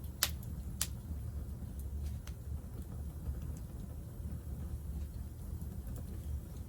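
Wood campfire crackling, with two sharp pops in the first second and a few fainter snaps later, over a steady low rumble.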